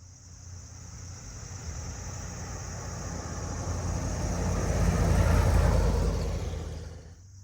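A car driving past: its engine and tyre noise grow steadily louder to a peak about two-thirds of the way through, then fade away.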